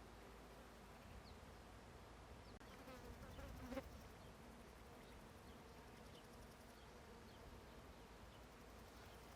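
A flying insect buzzing close by: its hum swells about three seconds in, peaks and fades within a second or so, over faint quiet background with a few tiny high chirps.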